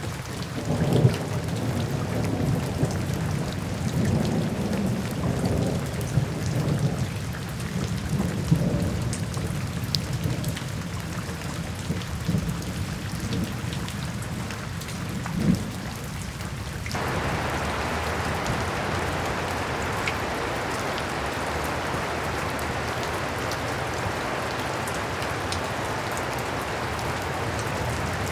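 Rain falling with rolling thunder rumbling underneath for about the first two-thirds. The thunder then cuts out suddenly, leaving steady heavy rain.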